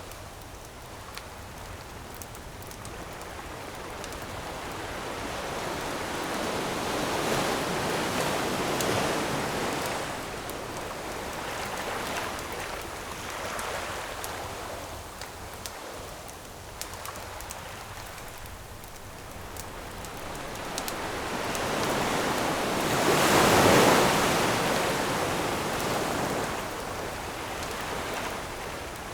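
Ocean waves surging and breaking on a shore in slow swells, the largest about three quarters of the way through, with the faint scattered crackle of a wood campfire.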